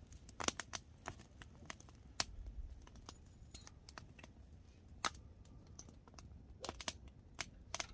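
Wood fire crackling, with irregular sharp pops and snaps, burning hot and fierce.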